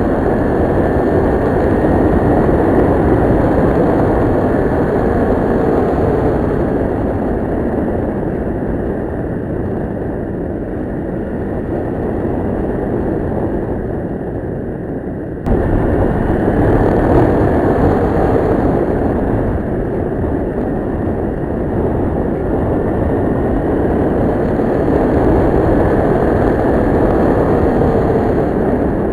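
Kawasaki Ninja 650R's parallel-twin engine running on the move, mixed with heavy wind rush. The engine pitch drifts gently up and down, and the sound steps up suddenly in loudness about halfway through.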